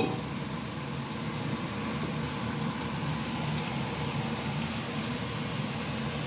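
Bite-size chicken pieces sizzling steadily in hot oil in a pan as they sauté.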